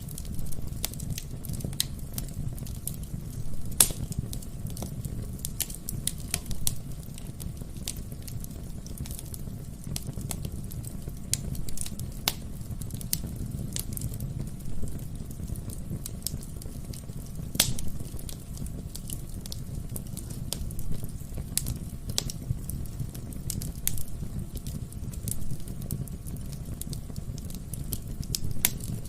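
Wood fire burning in a fireplace: a steady low rumble of flames with scattered sharp crackles and pops of burning logs, a few louder pops among them.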